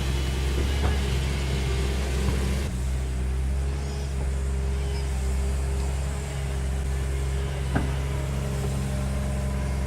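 Heavy machinery engine running steadily at a constant speed, with a couple of faint knocks.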